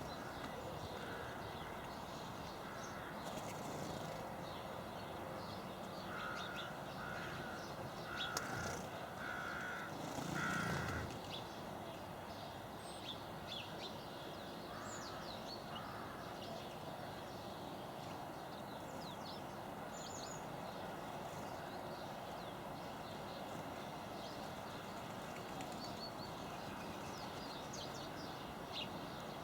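Garden birds calling: a run of short, harsh calls repeating in roughly the first eleven seconds, with brief high chirps from small birds scattered throughout.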